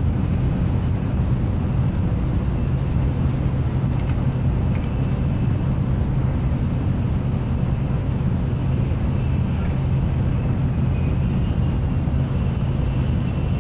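Steady low rumble and hiss inside a Nozomi Shinkansen bullet-train passenger car running at speed, with a faint high whine over it.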